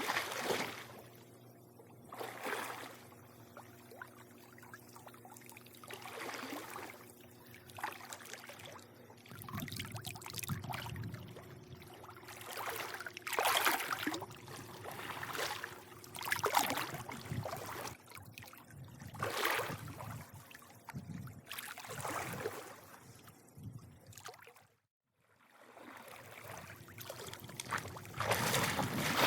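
Pool water lapping and sloshing against the pool edge, in irregular swells every second or two, over a steady low hum. The sound cuts out completely for under a second about 25 seconds in.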